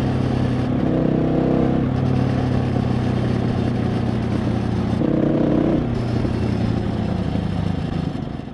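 KTM 690 SMC R's single-cylinder four-stroke engine running at low, steady revs, with short changes in tone about a second in and about five seconds in. The sound fades out at the very end.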